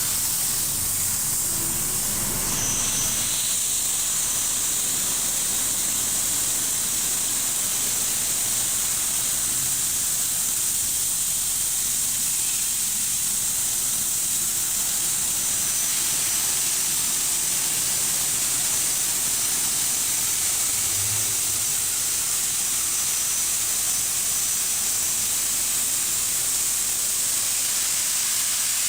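Belanger FreeStyler in-bay automatic car wash running, giving a steady hiss.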